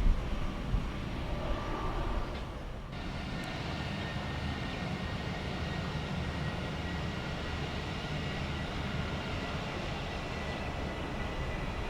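Jet airliner's turbofan engines running at a distance: a steady rumble with a faint high whine over it. Wind buffets the microphone in the first couple of seconds.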